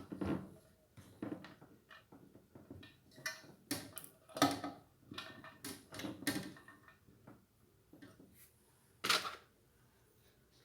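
Irregular clicks, knocks and rustles of ceiling-fan light-fixture parts being handled and fitted, with two louder knocks, one near the middle and one near the end.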